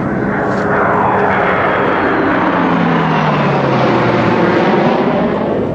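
Fixed-wing aircraft flying past, a steady rushing engine noise whose tones slide down in pitch as it goes by.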